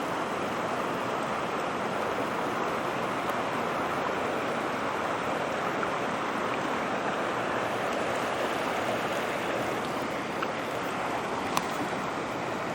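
A mountain trout stream rushing over rocks and small falls, a steady, even rush of water, with a faint click near the end.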